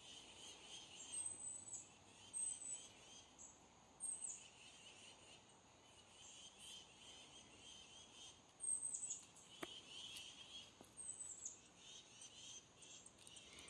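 Faint outdoor birdsong: short, high, falling chirps repeated every second or two over a softer twittering. A single sharp click comes about ten seconds in.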